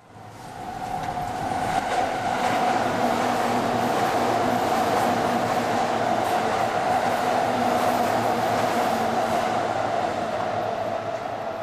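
Electric commuter train passing, running with a steady high hum that builds over the first two seconds and holds before easing near the end.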